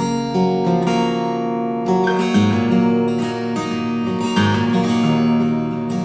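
Acoustic guitar being strummed, chords ringing on with a fresh stroke every second or so.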